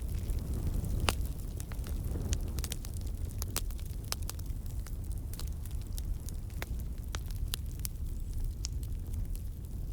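Campfire burning: a steady low rumble of flames with frequent sharp, irregular crackles and pops from the burning wood.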